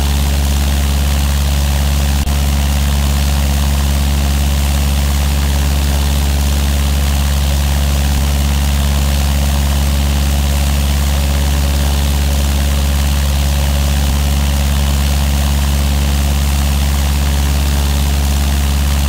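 Cessna 172's piston engine and propeller running at a steady, unchanging speed: a constant low drone with a hiss of air noise over it.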